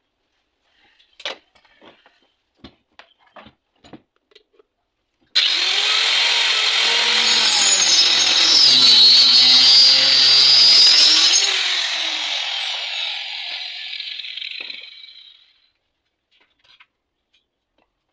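Homemade saw driven by an old washing-machine motor: a few light clicks and taps, then the saw starts abruptly about five seconds in, runs loud for about six seconds, and winds down to a stop over the next four.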